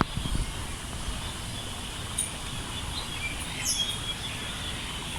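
A few short, high bird chirps about two to four seconds in, one sliding down in pitch, over a steady low background rumble.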